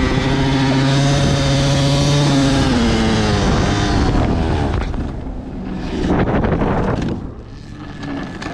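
Two-stroke dirt bike engine running at steady high revs, then its pitch drops away about three seconds in, followed by rougher, uneven engine and wind noise with a brief swell near the end.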